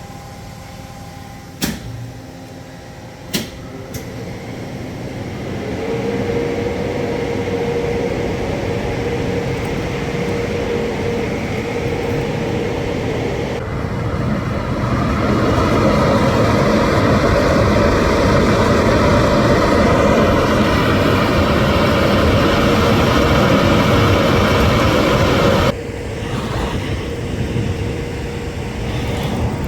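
Car wash machinery running: a dense, steady whirring and spraying noise with a constant hum, building up and loud through the middle, then dropping sharply near the end. Two sharp clicks sound in the first few seconds.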